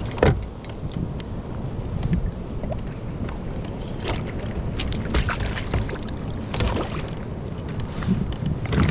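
Knocks and clatter of gear being handled on a fishing kayak, over steady wind on the microphone and water against the hull.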